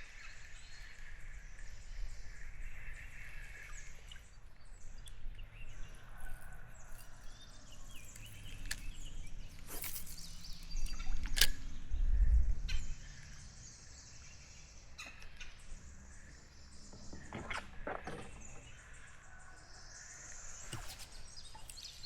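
Outdoor river ambience with bird calls. Near the end a rooster crows in a hoarse, off sound, like a sick rooster. A low rumble of noise on the microphone in the middle is the loudest thing.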